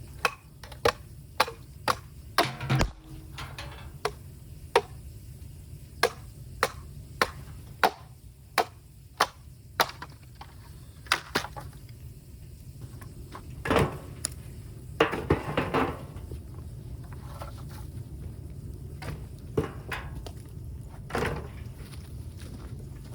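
Bamboo being chopped and split: sharp wooden knocks about two a second, becoming scattered about halfway through, with a few longer cracking sounds in the second half.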